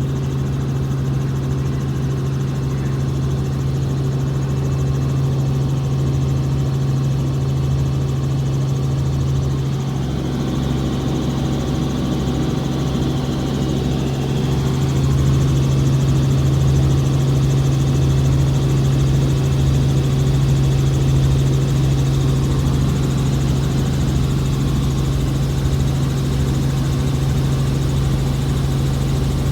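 Helicopter engine and rotors running with a steady low drone, growing a little louder about ten and fifteen seconds in.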